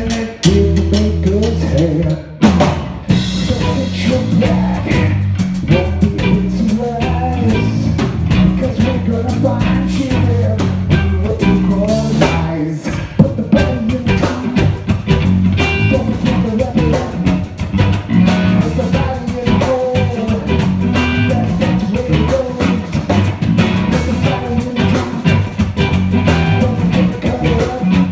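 Live funk-rock band playing an instrumental passage: a drum kit with rimshots, electric guitar and a driving electric bass line. The band stops for a brief break about two seconds in, then comes back in.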